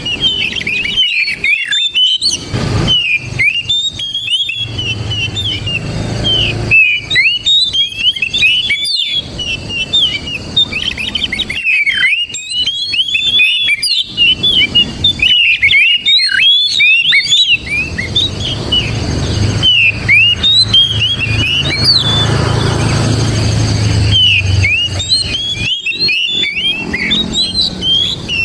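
Oriental magpie-robin (kacer) singing without pause, a fast, varied stream of whistled and chirped notes. A low rumble swells underneath twice, the second time from about twenty seconds in.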